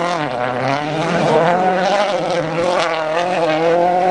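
Rally car engine at high revs as the car drives away on a gravel stage. Its pitch dips just after the start, then climbs and wavers through the rest.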